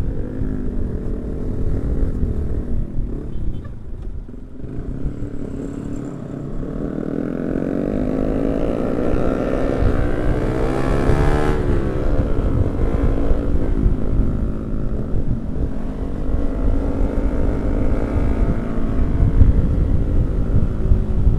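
Yamaha R15 V3 motorcycles' single-cylinder engines running on the move, the engine pitch rising and falling with the throttle, most clearly about ten seconds in, over a constant low rumble.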